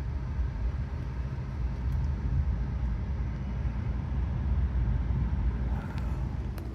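A low, steady rumbling noise that drops away near the end.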